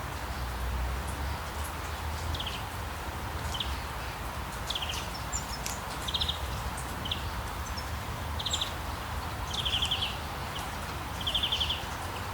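Outdoor nature ambience: a steady hiss and low rumble, with short high chirps and buzzy trills from small animals repeating about every second, the longest trills near the end.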